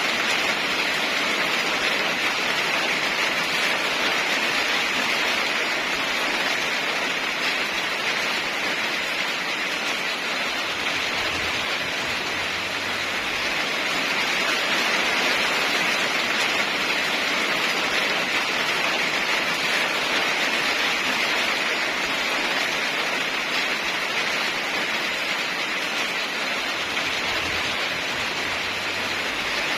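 Heavy rain falling steadily, an even hiss that swells and eases gently in loudness.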